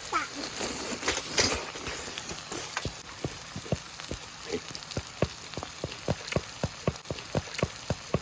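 Pork belly frying on a large cast-iron pot-lid griddle over a wood fire: a steady sizzle with many sharp pops and spits of fat, coming more thickly in the second half.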